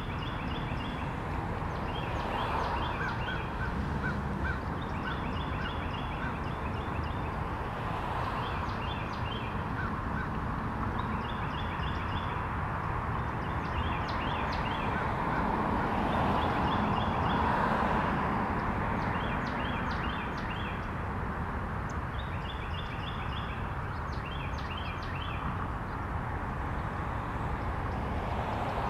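Bird calls: short bursts of rapid, high chattering notes, repeated every second or two, over a steady low background noise.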